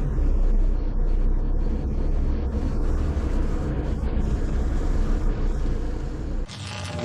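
Car driving: a steady low rumble of engine and road noise. Music cuts in abruptly near the end.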